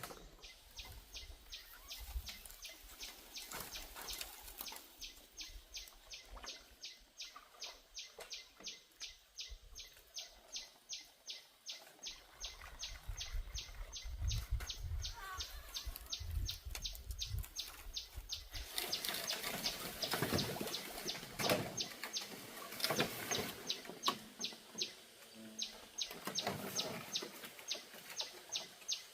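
Birds chirping in a fast, even rhythm of about three or four chirps a second, with a stretch of louder noise about two-thirds of the way through.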